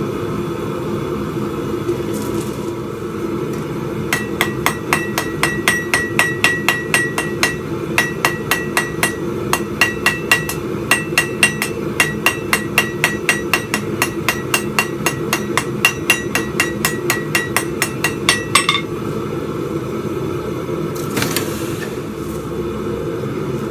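Hammer blows on hot steel over an anvil while forging a spike, about three a second with a ringing tone, in a run of roughly fifteen seconds broken by a few short pauses. A steady low hum runs underneath.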